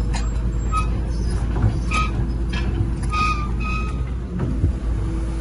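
Heavy earthmoving machinery running steadily with a low engine rumble, with several short high-pitched squeals over it.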